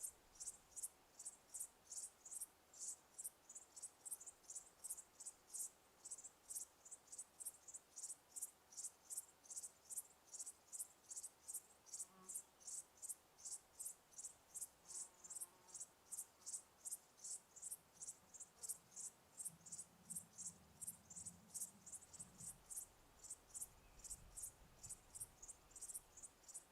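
A cricket chirping steadily, high-pitched, about three chirps a second. A faint low rumble comes in briefly about three-quarters of the way through.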